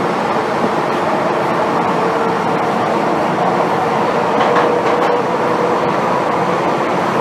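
MTR M-Train electric multiple unit running on the Tsuen Wan Line, heard from inside the passenger car: a steady rolling rumble with a faint, even whine from the drive.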